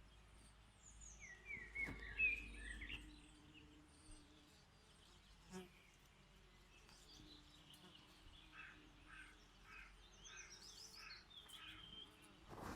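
Birds singing and chirping faintly, with the loudest chirping phrase about two seconds in and a run of short repeated notes, about two a second, in the second half.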